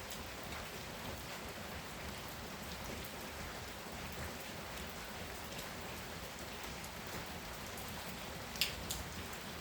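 Heavy rain falling steadily. Near the end, two sharp taps of drops close together stand out above the rain.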